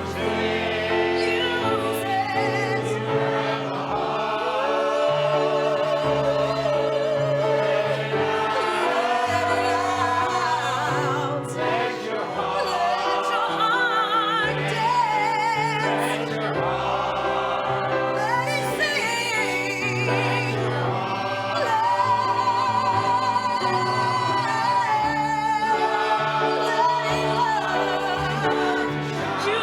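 Chorus singing with instrumental accompaniment, a solo voice standing out with long, wavering vibrato notes over steady bass notes that change every second or two.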